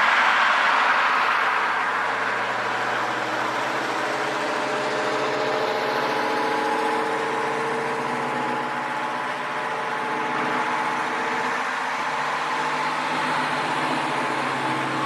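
Diesel engine idling steadily with an even hum. A louder wash of noise at the start dies away over the first couple of seconds.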